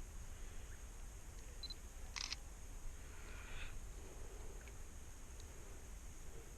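Faint camera handling and shutter clicks, the clearest a short click-burst about two seconds in, over a low steady rumble.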